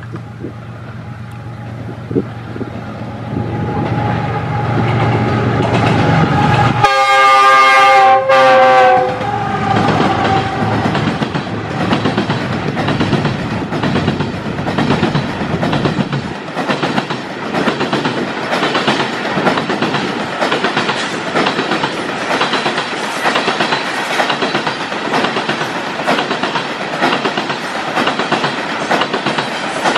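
Diesel-electric freight locomotive approaching, its engine growing louder. About seven seconds in it sounds a multi-note horn for about two seconds. Then a long train of loaded coal hopper wagons rolls past with a steady clickety-clack of wheels over the rail joints.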